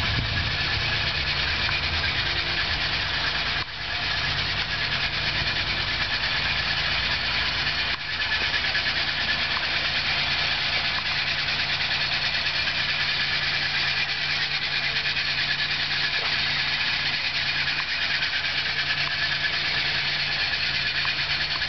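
1942 Studebaker Commander's 226 cubic-inch flathead six-cylinder engine idling steadily, with two brief dips in level in the first eight seconds.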